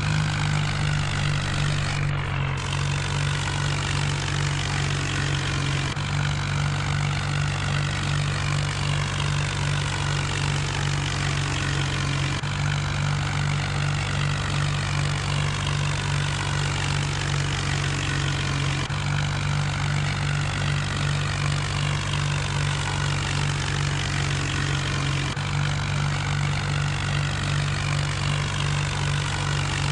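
John Deere tractor engine running at a steady speed, with a low, even drone.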